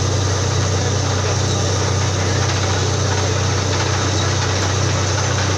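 Borewell drilling rig running: a steady, loud engine drone with a dense mechanical clatter over it.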